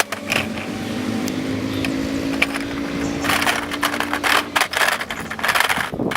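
Toy trucks being pushed and bumped, with scraping and clattering that get busier over the last few seconds. A steady low hum runs underneath and stops a little after four seconds in.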